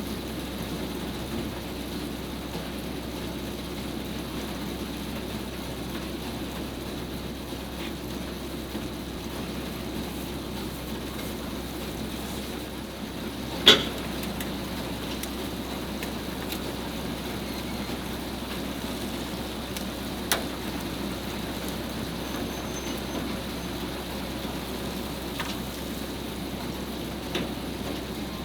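Steady rumble of an idling vehicle engine, with one sharp knock about 14 seconds in and a lighter click about 20 seconds in.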